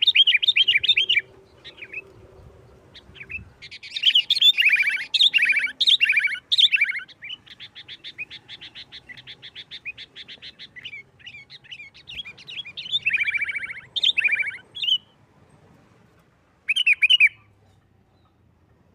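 Sooty-headed bulbul singing loud, rapid chattering phrases in bursts separated by short pauses, with a long fast run of evenly repeated notes in the middle and a final short burst near the end.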